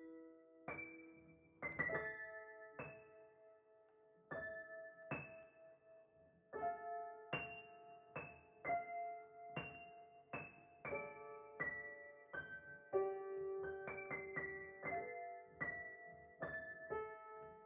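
Background music: a slow solo piano melody, single notes and chords struck about once or twice a second and left to ring.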